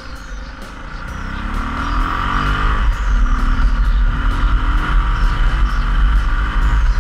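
Yamaha XT660Z Ténéré's single-cylinder engine accelerating: its pitch rises over the first few seconds, drops at a shift about three seconds in, then runs on at a steady higher load. A heavy low rumble of wind on the camera's microphone sits underneath.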